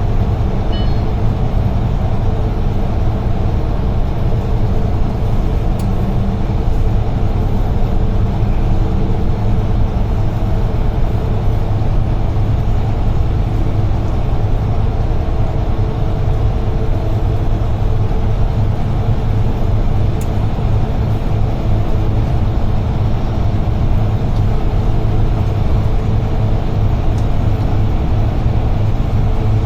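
Steady drone of a UD Trucks Quon heavy truck's diesel engine and road noise, heard from inside the cab while the truck drives at a constant pace.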